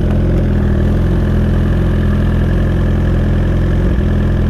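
Suzuki GSX-R1000R's inline-four engine running steadily through a Brocks Alien Head 2 full exhaust, its note holding even with no revving.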